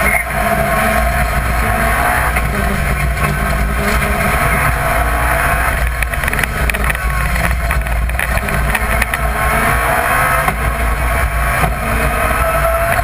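BMW Compact rally car's engine running hard at speed, heard from inside the cabin, its revs rising and falling as the car accelerates and shifts.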